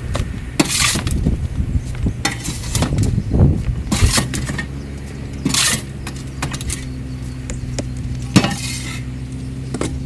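A shovel scraping out old bedding and droppings from a chicken coop, in a series of short scrapes at irregular intervals. A steady low motor hum sets in about halfway through.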